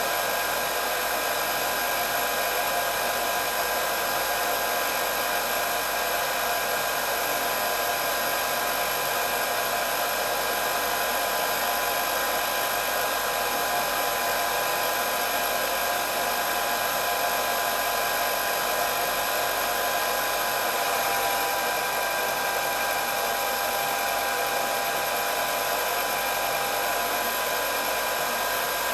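Hair dryer running steadily: an even rush of blown air with a constant high motor whine.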